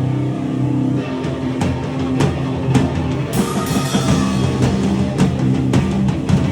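Live powerviolence band playing loud: distorted guitar and bass hold a low chord for about a second, then the drum kit comes in with hard repeated hits and a cymbal crash about three seconds in.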